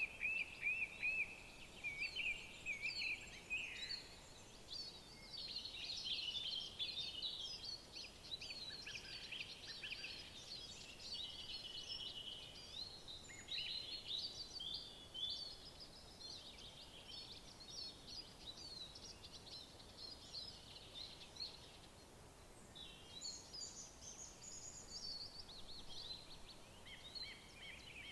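Several songbirds singing over one another, a dense chorus of quick chirps, trills and whistled glides that thins out past the middle, with a fresh burst of song near the end. A faint steady background hiss lies under it.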